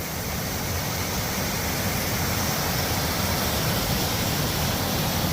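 Steady rushing roar of a waterfall, the River Nevis pouring over the Lower Falls.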